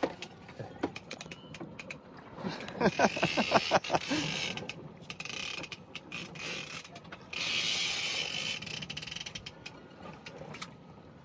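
Fishing reel clicking and ratcheting while a hooked shark is fought on rod and line, with a louder run of about eight quick pulses about three seconds in.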